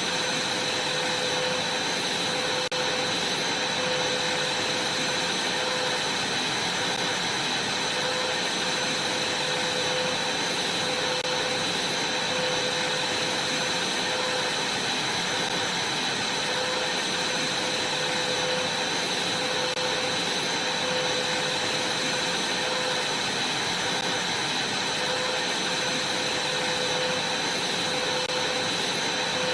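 Vacuum cleaner running steadily while vacuuming a trampoline mat: an even rush of air with a constant motor whine.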